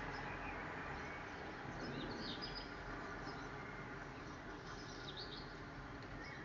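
Birds chirping faintly in short bursts of high calls, about two seconds in and again around five seconds, over a steady low outdoor background hum.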